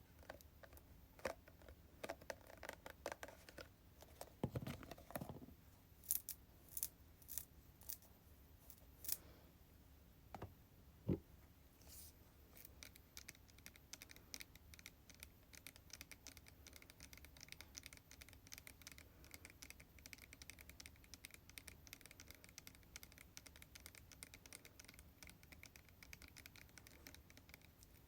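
Quiet tapping on hair product containers: scattered single taps for about the first twelve seconds, then a fast, even run of light taps or scratches.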